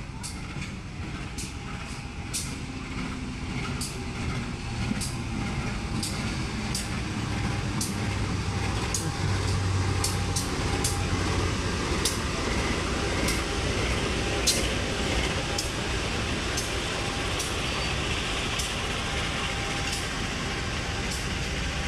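A train running past on the track: a steady rumble that builds over the first ten seconds or so and then holds, with sharp clicks coming about once or twice a second.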